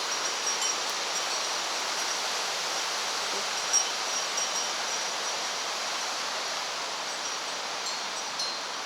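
Steady rushing of a mountain river flowing over stones, with a few faint short high notes over it and one soft click a little under four seconds in.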